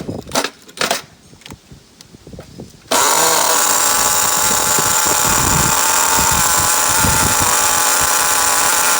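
A few handling clicks and knocks, then about three seconds in a small SH-18 nitro glow engine in an RC car bursts into a loud, steady, high buzzing run, idling during its break-in.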